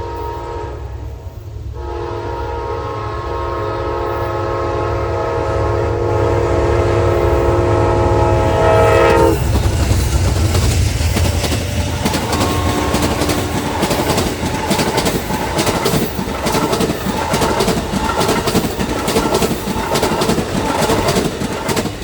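Train horn sounding a short blast, then a long blast as the train approaches; the horn's pitch drops sharply as the locomotive passes. The cars then rumble and clack by on the rails.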